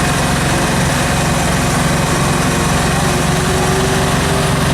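A 3.3 horsepower Mariner two-stroke outboard motor running steadily at low speed.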